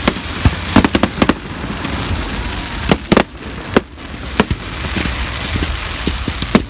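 Fireworks display: an irregular run of sharp bangs from bursting aerial shells, about a dozen, over a continuous crackling hiss.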